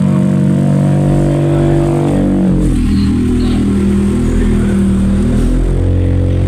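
Car engine held at high revs for a burnout, then falling in pitch about two and a half seconds in and settling to a lower, steady note near the end.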